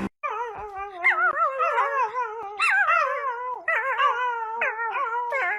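A dog howling in a warbling, wavering voice: a run of drawn-out calls that rise and fall in pitch, one running into the next.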